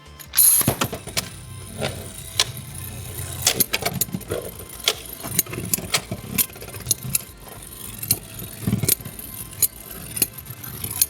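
Spinning Beyblade X tops clashing in a plastic stadium: a rush of noise about half a second in, then repeated sharp, irregular clacks of the tops striking each other and the stadium over a steady spinning hiss.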